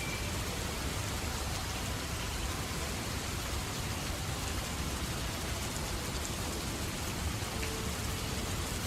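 Steady rain falling, an even hiss of drops with a low rumble underneath that does not change.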